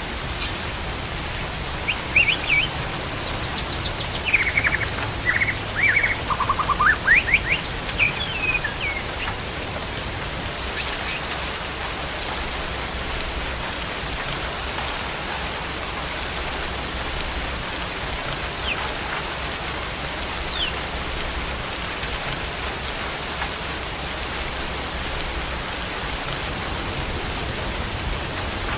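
White-rumped shama singing a run of varied quick whistles and trills in the first ten seconds or so, with a few faint notes later, over a steady hiss of rain.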